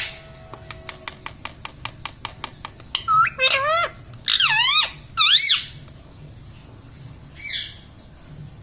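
A pet parrot first gives a quick run of short clicks, then two loud bouts of warbling calls that wave rapidly up and down in pitch, about three and four and a half seconds in, and one faint short call near the end.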